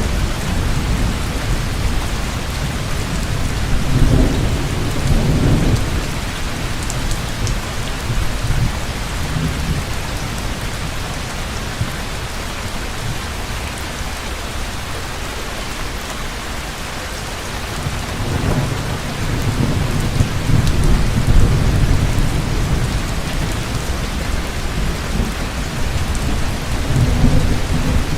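Heavy rain falling steadily, with rolling thunder rumbling low several times: around four seconds in, again over a long stretch in the second half, and once more near the end.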